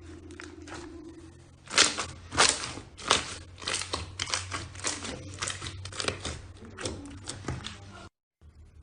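Slime being squeezed and worked by hand, giving a run of sharp crackling pops about two a second that stops abruptly near the end.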